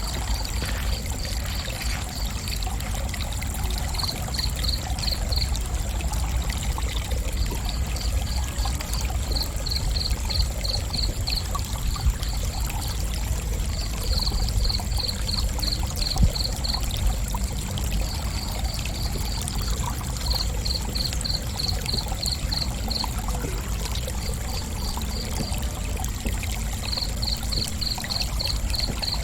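Crickets chirping in short runs of rapid high pulses, about five a second, one run every second or two. Beneath them run a steady higher-pitched trill and a low rumbling background noise.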